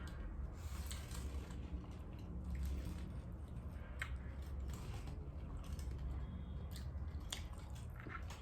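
Chewing and biting into birria tacos, with short wet clicks and crunches scattered throughout, over a steady low hum.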